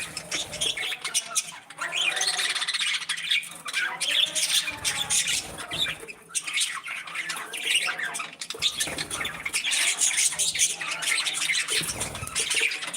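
A flock of budgies chirping, warbling and squawking over one another, a steady dense chatter of many birds at once.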